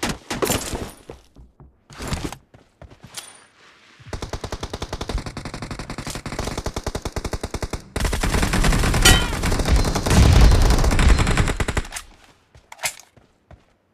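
Automatic gunfire in a first-person shooter video game: a few short bursts, then a long run of rapid, evenly spaced shots that gets louder about halfway through, and one last shot near the end.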